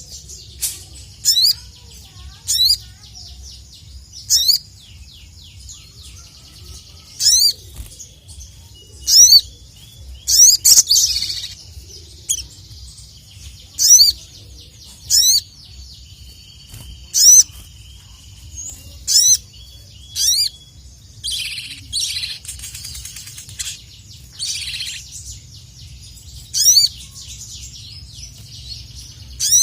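Sogon (sogok ontong, a spiderhunter) calling loudly and repeatedly: sharp, high, sliding chip notes, one every second or two, with a few noisy rustling bursts around the middle. A steady low hum runs underneath.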